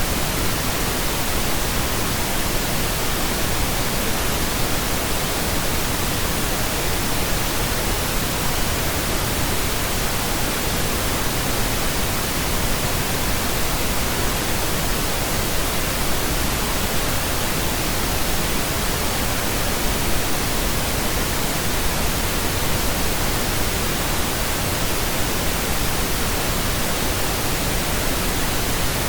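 Steady pink noise: an even, unbroken hiss with no tones or rhythm in it.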